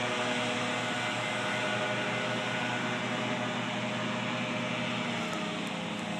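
Steady mechanical drone with a few held low tones, easing slightly about five seconds in.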